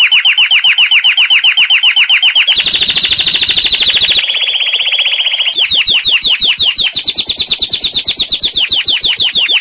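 Domestic canary singing a run of fast trills of repeated notes, about a dozen a second. It switches to a new trill about two and a half seconds in, again near four seconds, and near six seconds.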